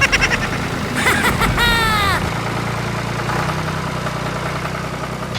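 An engine runs with a steady low hum. Right at the start there is a quick run of short high chirps, and about a second in come several falling, squeal-like pitched glides.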